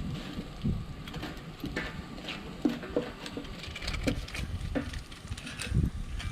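Wood campfire crackling, with scattered sharp pops and snaps, over a low rumble.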